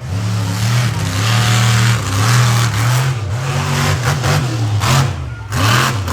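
Monster truck engine revving hard, its pitch surging up and down again and again as the throttle is worked, with a brief dip about five seconds in.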